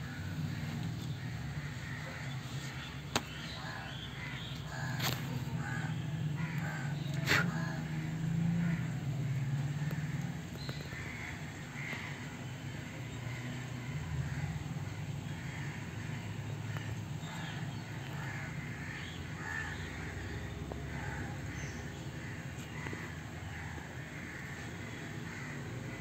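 Birds calling on and off, short repeated calls over a steady low hum, with a few sharp clicks in the first several seconds.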